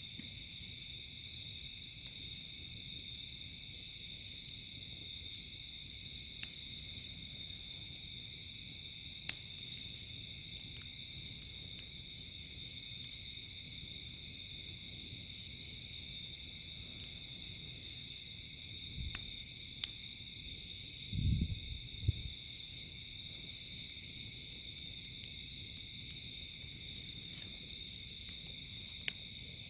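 Steady chorus of night insects, crickets among them, with a higher buzzing that comes and goes every couple of seconds, over the scattered sharp pops of a crackling campfire. A brief low thumping comes about 19 to 22 seconds in.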